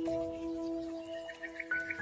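Slow ambient music of long held notes that shift pitch. In the second half, a rapid run of short high bird chirps, about eight a second.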